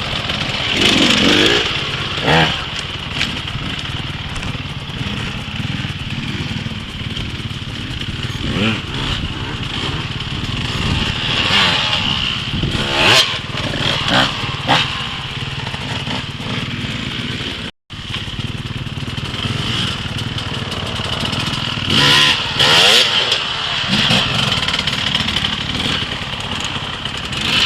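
Dirt bike engine running and revving, with occasional short sharp knocks. The sound drops out for an instant about eighteen seconds in.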